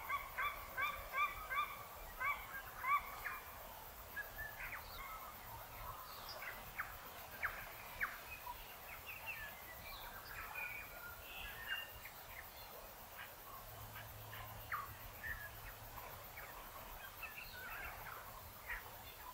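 Birds calling: a rapid series of repeated harsh notes in the first three seconds, then scattered short chirps and quick whistled sweeps from several birds.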